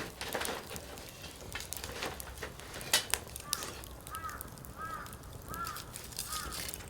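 Wood fire crackling with sharp pops, the loudest about three seconds in. From about halfway, a bird calls five times in a regular series of short arched notes.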